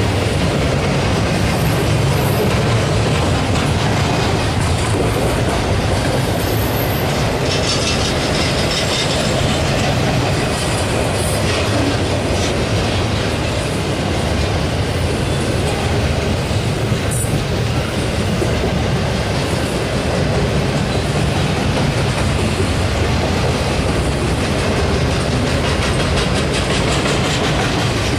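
Double-stack intermodal freight cars rolling past, with a steady rumble and the clatter of steel wheels on the rails.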